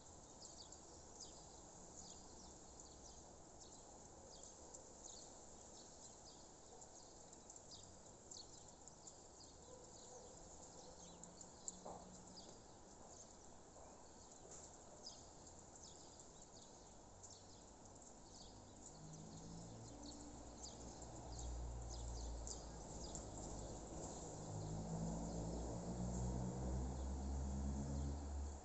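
Outdoor nature ambience: many short, high chirps from small birds and insects keep up throughout. A low rumble swells over the last ten seconds and becomes the loudest sound.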